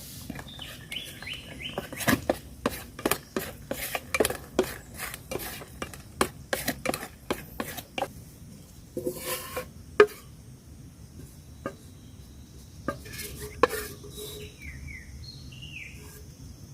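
Metal utensils clinking and knocking against cookware in a quick irregular run, thinning out after the first half, with a few short falling bird chirps near the start and the end.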